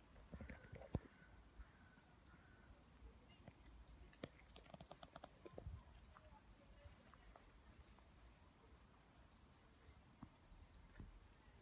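Faint, short groups of rapid high-pitched clicking that repeat every second or two, with a few scattered soft knocks, over near silence.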